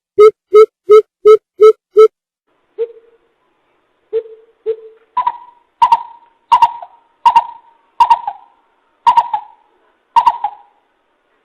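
Coucal calling: a fast run of deep, evenly spaced hoots that ends about two seconds in, a few scattered low hoots, then a slower series of higher, rougher calls about one every 0.7 seconds. It is a recorded call played as a lure for trapping coucals.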